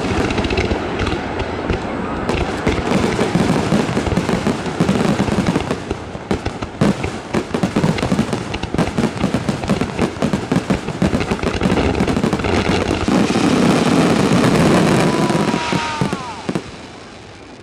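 Large display fireworks bursting in a continuous barrage of many overlapping bangs and crackles, dying away about a second before the end. A falling whistle sounds just before it fades.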